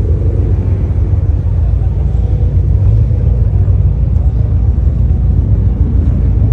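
Steady low rumble of a car, with no change in pitch and no distinct events.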